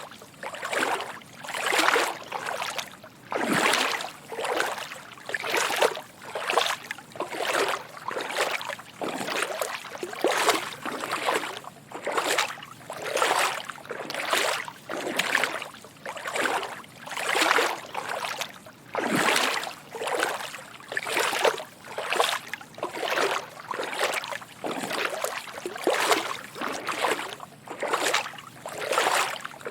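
Footsteps wading through shallow water: soft sloshing splashes repeating in a steady walking rhythm.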